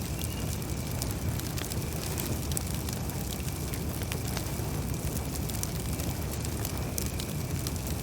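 Campfire crackling: scattered sharp pops and snaps over a steady low rumble of burning wood.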